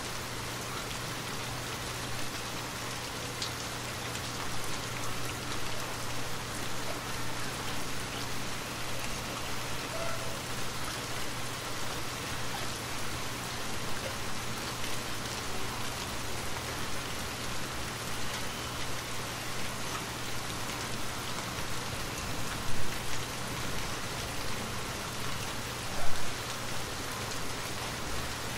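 Steady rain, an even hiss of falling drops, over a low steady hum. Two brief, louder hits stand out near the end, about three seconds apart.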